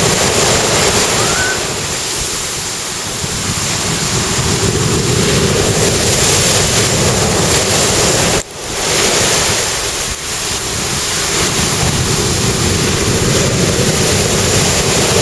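Large ocean waves breaking and washing up the beach in a continuous, loud rush of surf, with a brief break in the sound about eight and a half seconds in.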